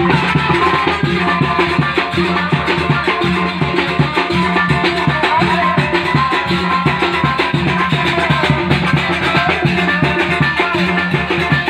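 Live band music with drums and melodic instruments playing over a steady, driving beat.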